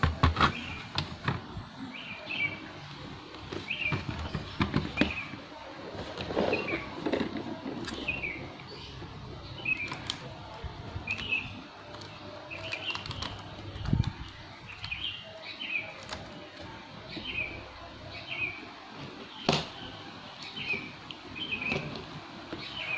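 Scattered clicks and knocks of plastic laptop parts and tools being handled as the laptop is taken apart, over a bird chirping about once a second.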